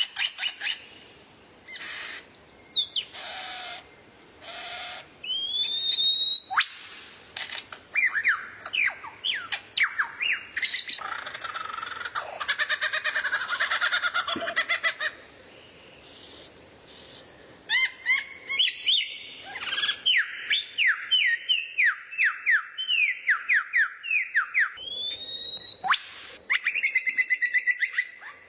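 A songbird singing a loud, varied song: quick runs of downward-sweeping whistles, a harsh raspy chattering stretch in the middle, and a few upward-slurred whistles.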